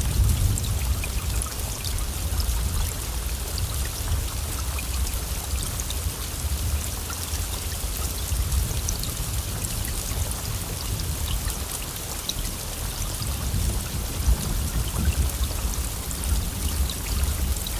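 Heavy rain falling steadily, a dense hiss dotted with the ticks of individual drops, over a continuous low rumble.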